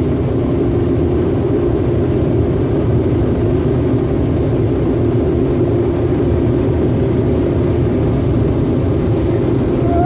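Automatic car wash machinery running with a loud, steady, unbroken rush and hum, heard from inside the car.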